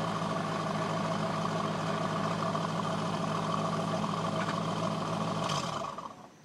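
2004 Chevrolet C5 Corvette's V8 running through its stock exhaust at a steady idle, then stopping near the end.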